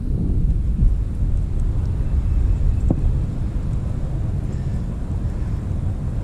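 Strong wind buffeting the microphone: a loud, unsteady low rumble, with a single faint tick about three seconds in.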